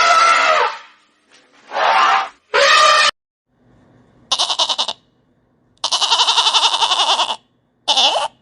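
Goats bleating: a string of about six calls, the later ones quavering, with one long bleat about six seconds in.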